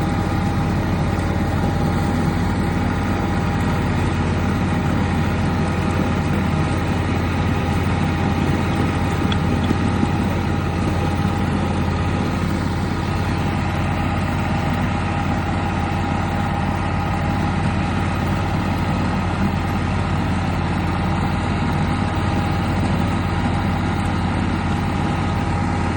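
1/8-scale ride-on locomotive running: a steady low hum with a constant higher whine, unchanging throughout.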